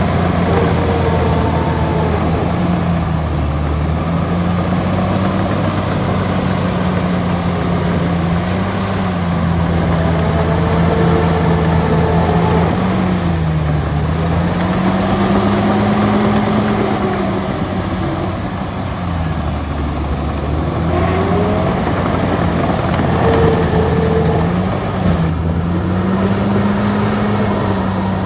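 Bulldozer's heavy diesel engine working steadily, its pitch rising and dipping every few seconds as the load changes while it pushes dirt.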